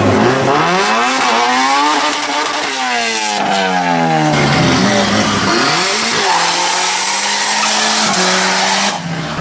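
Tuned street-car engine revving hard at the drag start line, its pitch climbing and falling several times. Then the revs are held steady with tyre noise as a front-wheel-drive car spins its wheels in a smoky burnout.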